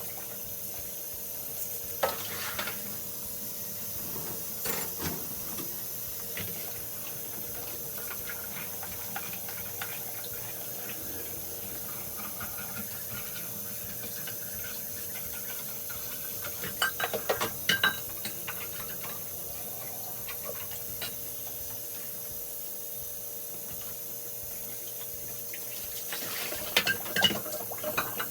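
Dishes and cutlery clinking and clattering now and then as they are loaded into a dishwasher, with a burst of clatter about two-thirds through and another near the end, over a steady low hiss.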